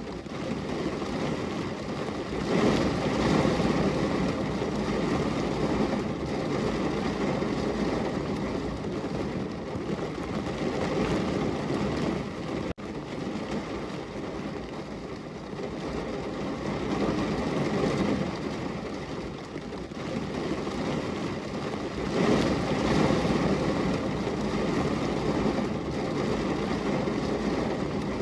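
Heavy rain pouring down on a window, a dense, steady rush that swells and eases in waves, with a momentary break about halfway through.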